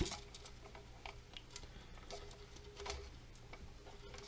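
Faint, scattered clicks and light taps of hands handling plastic parts inside a drained toilet tank, at irregular intervals.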